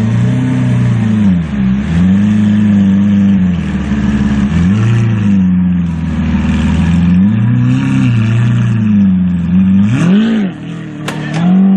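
Car engine revving hard and easing off again and again, its pitch rising and falling every second or two. A short sharp crack comes near the end.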